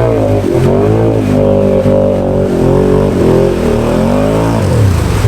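Can-Am Outlander 650 XMR ATV's V-twin engine, fitted with an HMF Titan QS exhaust, revving up and down under heavy load as it pushes through deep mud. Its pitch rises and falls repeatedly, then drops about four and a half seconds in.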